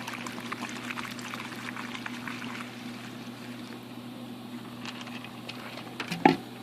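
Petrol pouring from a container in a trickling hiss that tails off over the first few seconds. A few clicks and a knock follow near the end.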